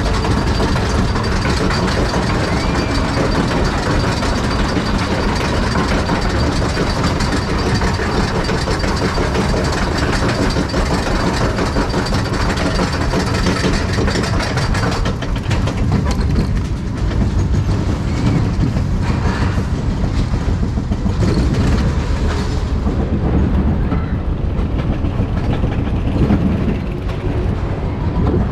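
Spinning roller coaster car running along its steel track, a continuous loud rattle and clatter of wheels and car. A thin high whine runs under it for the first half and stops about halfway through.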